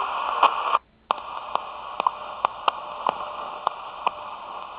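Shortwave radio receiver (Sony ICF-SW55) playing band noise through its speaker: steady hiss with sharp static crackles scattered every fraction of a second. It cuts out briefly about a second in, then the hiss returns.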